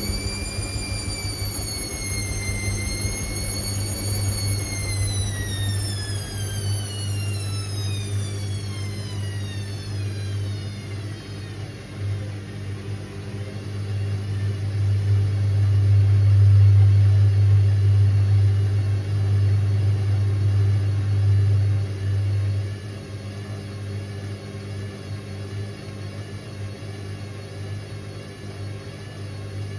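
Indesit IWC6165 washing machine running: the motor's whine rises and wavers, then falls away over about ten seconds as the drum slows, over a steady low hum. The hum swells louder partway through and drops back suddenly near the end.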